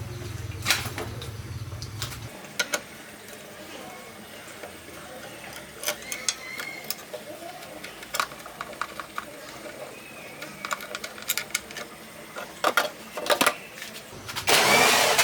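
Scattered sharp clicks and knocks of tools and metal parts being handled, with a steady low hum that stops about two seconds in and a brief louder scraping or rushing noise near the end.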